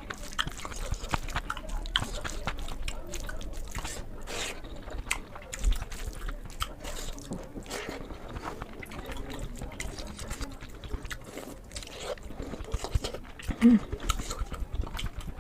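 Close-miked eating sounds: wet chewing and mouth smacks with many small clicks as rice and egg curry are eaten. Near the end comes a brief low vocal sound, the loudest moment.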